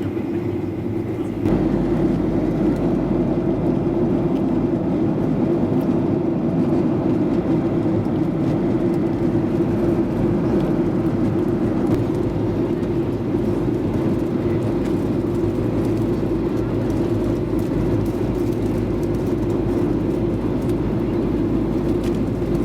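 Steady cabin drone of a Boeing 737-800 airliner in flight, engine and airflow noise. It gets louder about one and a half seconds in and then holds level.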